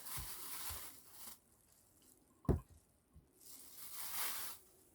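Kitchen handling noises while preparing potatoes: two short spells of faint rustling or scraping, with a single sharp knock about halfway through.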